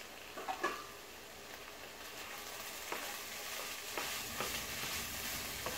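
Cubed pumpkin with its tempering sizzling on medium heat in a non-stick kadhai, being stirred with a wooden spatula. The sizzle is steady and grows a little louder after about two seconds, with a few light clicks and scrapes of the spatula against the pan.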